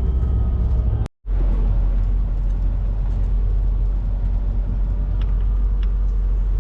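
Steady low rumble of a car driving, heard from inside the cabin. The sound cuts out completely for a moment about a second in.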